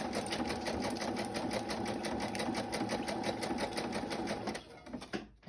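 Electric sewing machine stitching through paper, a steady motor hum with fast, even needle clicks, stopping about four and a half seconds in.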